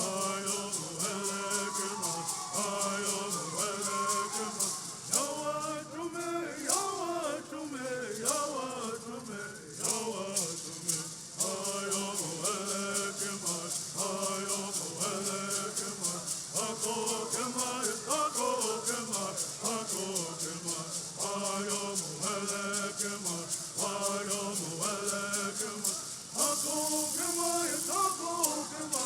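A group of men singing Southern California bird songs in unison, keeping time with shaken gourd rattles in a steady quick beat. The rattles grow louder near the end.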